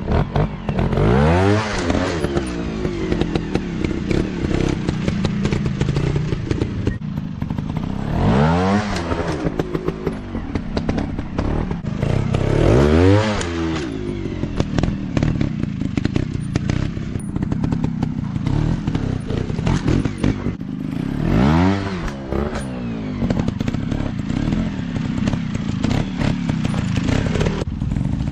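Off-road motorcycle engines running, with the engine pitch climbing and dropping back four times as the throttle is opened and closed.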